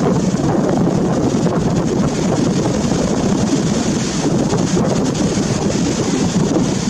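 Wind buffeting the microphone: a loud, steady rumbling rush with no clear tones.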